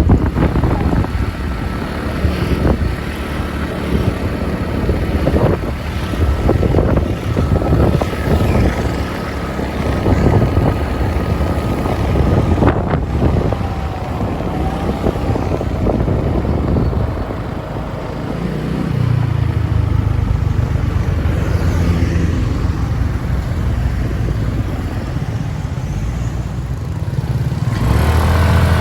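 Motorbike engine running while riding along a road. The engine note settles into a steadier hum about two-thirds of the way through.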